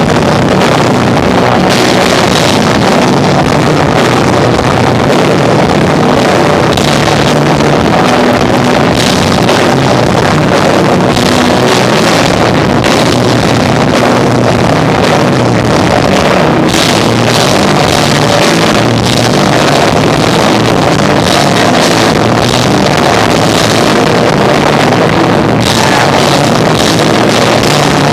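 Live rock band (electric guitar, bass and drums) playing loudly, with drum and cymbal hits throughout. The recording is overloaded and distorted, so the instruments blur into a dense, constant wash.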